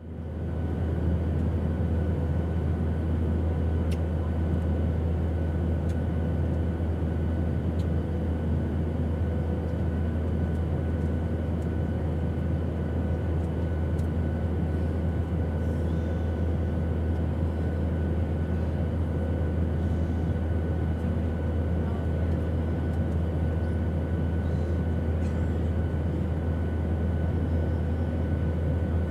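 Airplane engine noise: a steady, unbroken drone with a heavy low rumble and faint steady tones above it, fading in quickly at the start.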